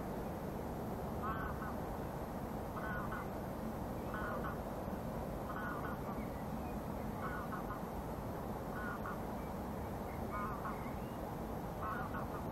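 A bird calling with short, repeated calls about every second and a half, over a steady rush of wind and water.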